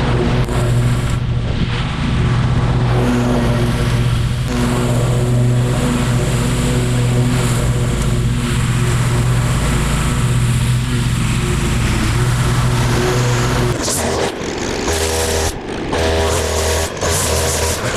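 Engine of outdoor power equipment running steadily under load, its note changing about fourteen seconds in.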